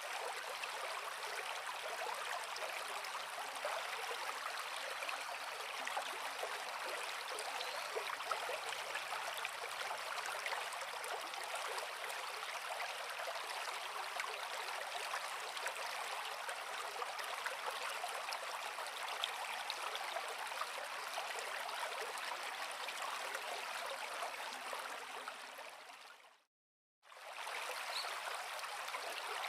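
Creek water flowing steadily over rocks, a continuous rushing and gurgling. A little before the end it fades out to silence for about a second, then returns.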